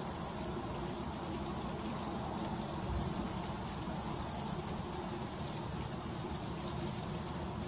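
Freezing rain falling steadily, a dense patter of fine ticks over a low background rumble.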